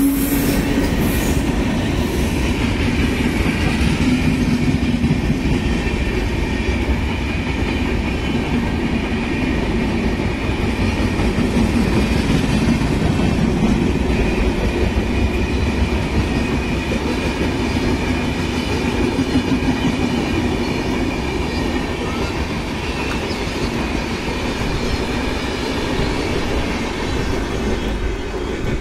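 Passenger train running past close by on electrified track: a steady loud rumble and rattle of wheels and coaches on the rails, with a faint high whine above it, cutting off abruptly at the end.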